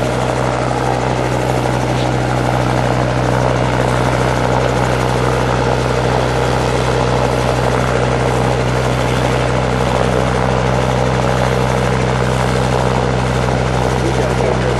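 Robinson R22 Beta II helicopter's piston engine and rotors running, loud and steady with no change in pitch or level.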